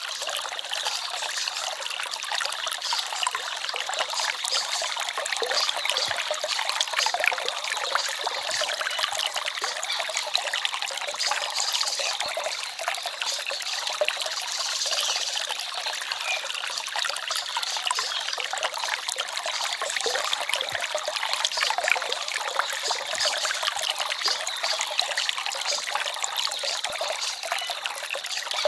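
Small forest stream babbling and trickling steadily over stones.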